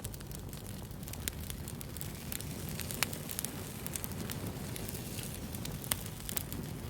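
Wood fire burning: a steady low rush of flames with irregular crackles and sharp pops, the loudest pop about three seconds in and another near six seconds.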